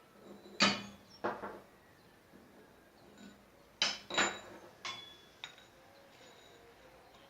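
Half a dozen sharp metallic clinks and knocks with a short ring, as a new steel shaft and table fan motor parts are handled and set into place.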